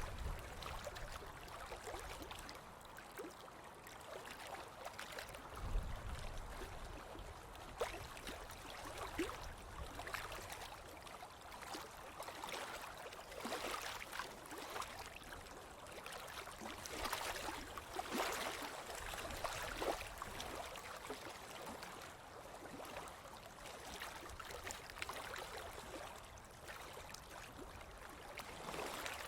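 Ocean waves washing on a beach, a steady fizzing wash that swells and eases as each wave breaks and runs up the sand, loudest around halfway through. A brief low rumble about six seconds in.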